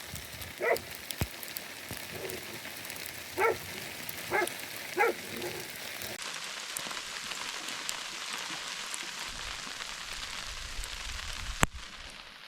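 Freezing rain pattering steadily, with a dog giving about five short barks in the first half. A single sharp click comes near the end.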